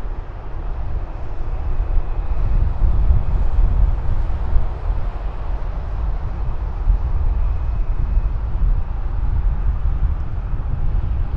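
Jet airliner's engines: a steady, loud low rumble with a faint high whine on top.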